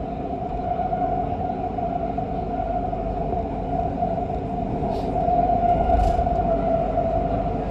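Siemens Inspiro metro train running between stations: a steady whine over the rumble of wheels on rail, growing a little louder about five seconds in, with two brief sharp clicks near the end.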